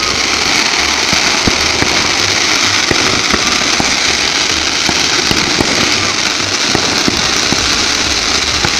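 Fireworks display going off nonstop: a dense crackle of bursting shells, with many sharp bangs scattered through it.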